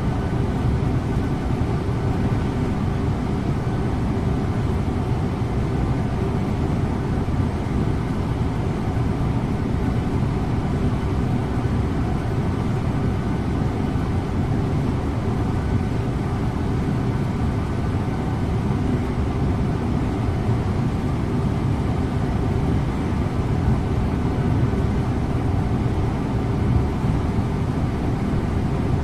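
Scania InterLink bus driving at a steady speed: a constant engine drone with faint steady tones, mixed with road and tyre noise, with no change in pitch or level.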